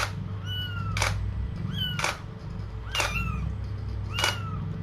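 Young kittens mewing repeatedly, a short high-pitched squeak about once a second. Each mew comes with a sharp click.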